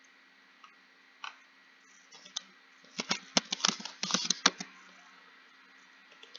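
Typing on a computer keyboard: a few scattered keystrokes, then a quick run of about a dozen keystrokes about three seconds in, followed by a pause.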